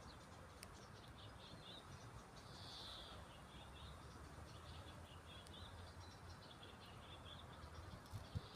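Faint birds chirping and twittering in short bursts over a low background rumble, with a brief thump near the end.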